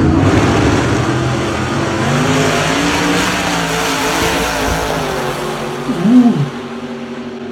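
Loud engine of a 1960s-style gasser drag car running. A short, sharp rev rises and falls about six seconds in and is the loudest moment, then the sound fades away.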